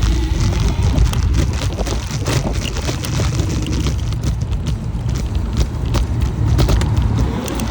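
Dualtron Compact electric scooter ridden at high speed: a steady low rumble from wind and road, with irregular sharp clicking and rattling from the scooter and a faint wavering motor whine.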